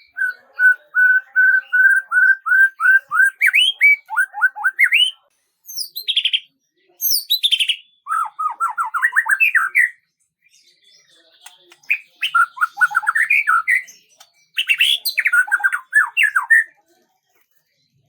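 A songbird singing in separate bouts with short pauses between them: first a run of quick, even repeated notes, then fast trills of notes that sweep up and down.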